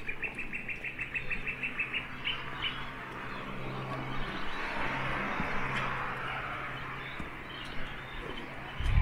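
A bird chirping in a quick, even run of short notes, about six a second, for the first few seconds, over a steady low hum. After that a steady rushing noise takes over, and a low thump comes right at the end.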